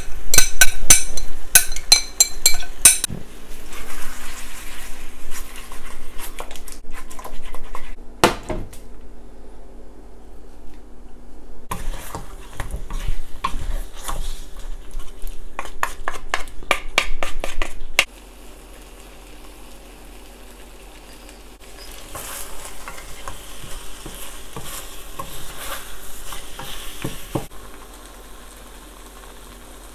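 Sauce-coated chicken feet sizzling in a hot non-stick pan while being stirred, with wooden spatulas scraping and knocking against the pan. The clatter is loudest in the first few seconds, as the last sauce is scraped in from a glass bowl. It stops about 18 seconds in, leaving a quieter, steady sizzle.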